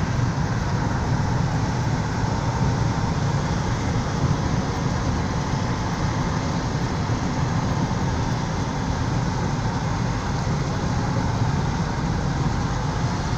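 Steady road and engine noise heard from inside a moving car's cabin, a continuous low rumble with no distinct events.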